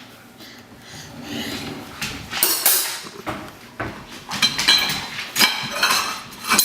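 Kitchen cutlery clinking and clattering as it is put away in a drawer: a run of sharp metal knocks, busier and louder in the second half.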